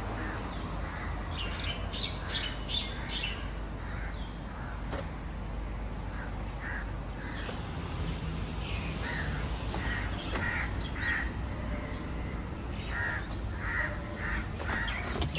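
Birds calling: short calls repeated in runs over a steady low background rumble.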